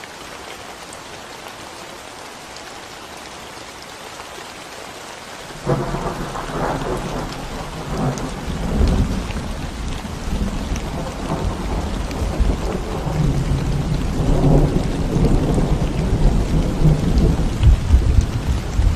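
Steady rain falling on a concrete road. A little over five seconds in, thunder breaks in suddenly and rolls on as a long, low rumble that grows louder toward the end.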